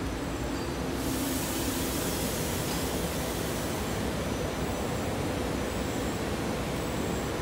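SEPTA Silverliner IV electric multiple-unit train rolling slowly along the platform as it comes to a stop, with a steady low rumble from the cars. A hiss starts about a second in and fades after a few seconds.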